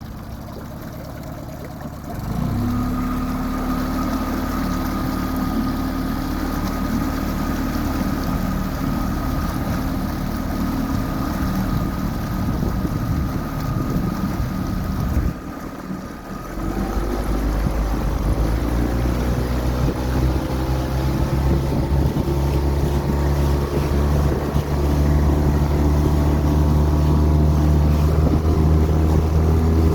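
Parsun 9.8 hp four-stroke outboard motor running. It picks up about two seconds in, drops away briefly about fifteen seconds in, then runs louder with its pitch slowly rising as the throttle opens.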